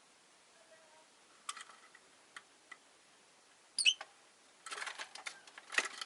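Rosy-faced lovebirds in their cage: scattered sharp ticks and taps, one short high chirp about four seconds in, then a busy run of clicking and rustling near the end.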